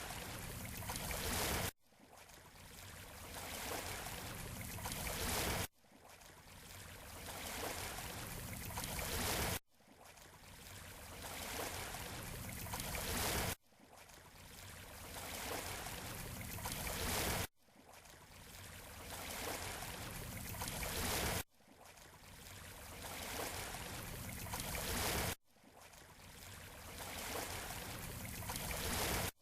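Surf washing on a beach shore, played as a short loop. Every four seconds or so the wash swells steadily and then cuts off abruptly before starting again.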